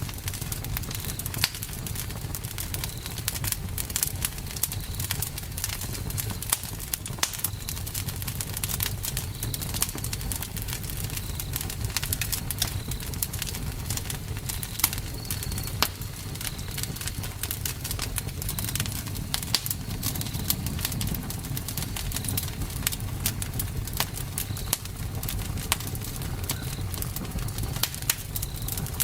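Campfire burning, with frequent sharp crackles and pops over a steady low rumble of the flames. A faint short high chirp repeats about every two seconds.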